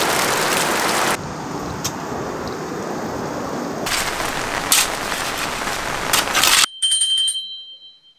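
Heavy rain pouring down, splashing off a tarp. It cuts off abruptly about two-thirds of the way through, and a short bright chime of a few bell-like tones follows and fades out.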